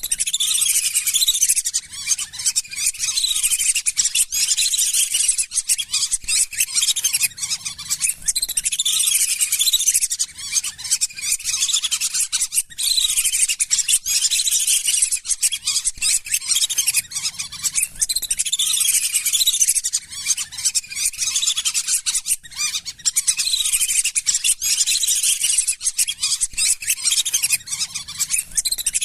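A flock of lesser whistling ducks calling without a break: many overlapping high whistled notes that rise and fall, chattering over one another.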